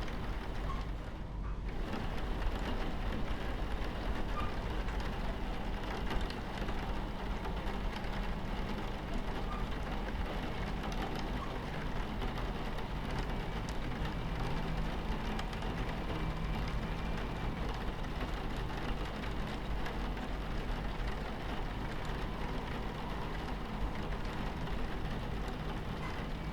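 Passenger train running steadily, a low rumble under the constant patter and hiss of rain on the carriage window. The high rain hiss thins out briefly about a second in.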